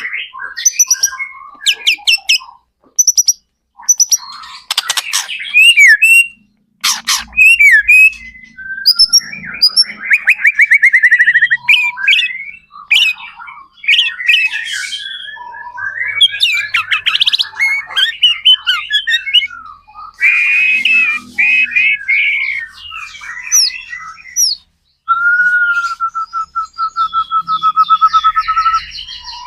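White-rumped shama singing loudly and without pause, in quick varied phrases of sharp notes, trills and sweeping whistles. Near the end it holds one long, steady whistled note.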